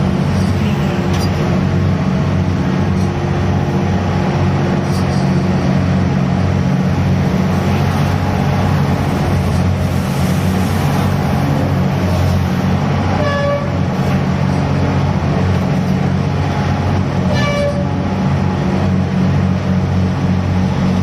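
The diesel-driven grab crane machinery of a gut ship runs steadily and loudly during grab unloading. Two short pitched tones sound about thirteen and seventeen seconds in.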